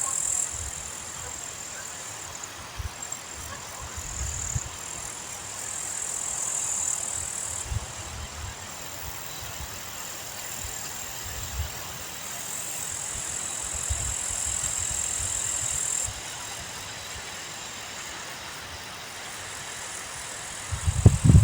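Wind buffeting the microphone in low, uneven gusts, with the strongest gusts near the end. Under it runs a steady high-pitched hiss that stops and starts every few seconds.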